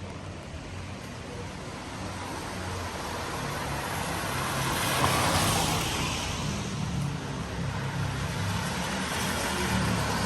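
A car passing on a wet road, its tyre hiss swelling to a peak about halfway through and fading, with another vehicle approaching near the end.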